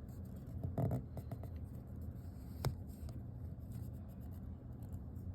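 Hands handling a pocketknife: soft rubbing and a few small clicks, the sharpest about two and a half seconds in, over a low steady hum.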